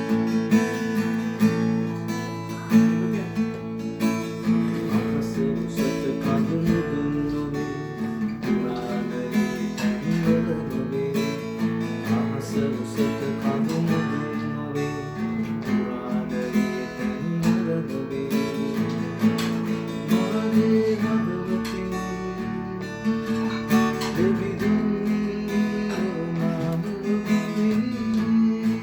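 Acoustic guitar strumming chords in an instrumental stretch of a song, with no singing.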